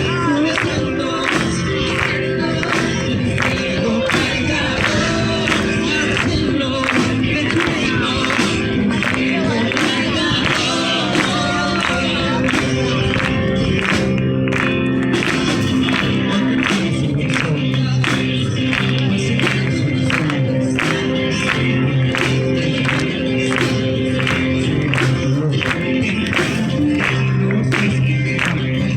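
Christian worship song sung by a group over music with a steady beat of about two strokes a second.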